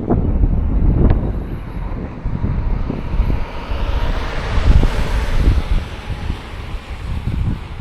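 Wind buffeting the microphone in low, gusty rumbles. A passing vehicle's hiss swells and fades near the middle.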